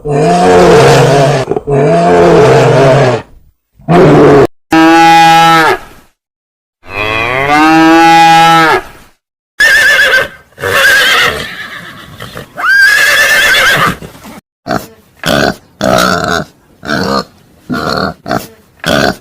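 Animal calls, several in a row. In the first half come four long, low calls with strong overtones, some sliding in pitch, like the lowing of cattle. After that comes a quicker run of short, higher-pitched calls about one or two a second.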